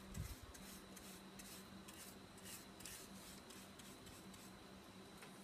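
Faint brushing strokes of an old paintbrush with a little water scrubbing a plastic model train body, roughly three short strokes a second, with a soft bump just after the start.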